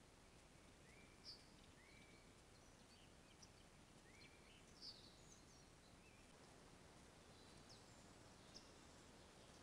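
Near silence: faint steady hiss with a scattering of short, faint bird chirps, a few of them hooked upward.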